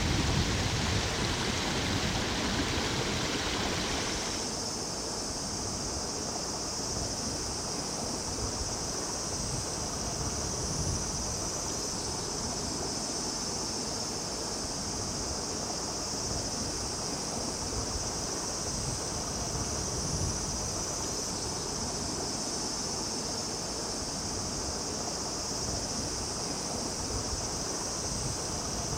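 A mountain stream rushing and babbling in a steady wash. About four seconds in, the water sound changes abruptly and becomes softer, and a steady high-pitched drone carries on above it.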